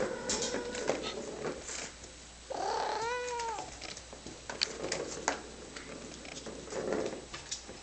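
Birman cat meowing: a drawn-out call that fades about a second and a half in, then one arching meow about two and a half seconds in. Scattered light clicks and taps run throughout.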